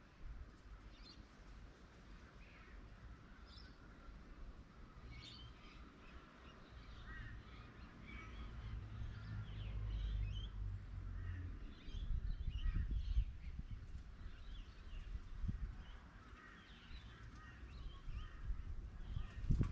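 Birds calling: many short chirps and calls, scattered and overlapping, over a low rumble that grows louder in the middle.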